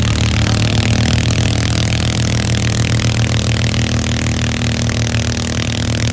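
A loud engine running at a steady speed, with a strong low hum and no change in pitch.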